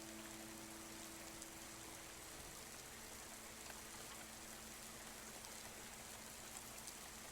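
Faint, steady rain heard from inside a house, an even hiss with scattered tapping drops. A lingering piano note fades away over the first two seconds or so.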